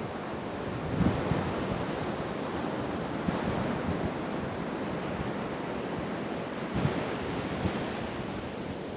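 Steady rush of ocean surf with wind on the microphone, swelling softly now and then.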